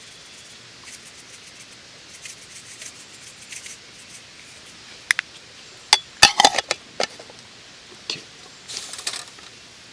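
Small clicks, taps and rustles of camp cooking gear and packaging being handled, with a quick run of sharp clicks and knocks about six seconds in and a brief rustle near the end.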